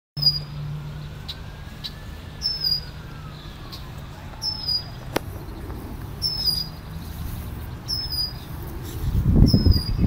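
A small bird calling short, high chirps, one every second or two. A loud low rumble on the microphone comes in near the end.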